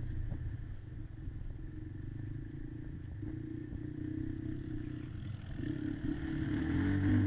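Quad engine running at steady low revs, then picking up and getting louder near the end, with some clattering.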